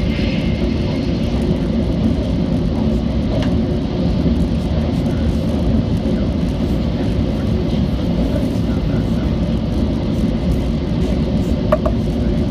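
Steady low rumble of a Shinkansen bullet train running at speed, heard from inside the passenger cabin, with a brief tap near the end.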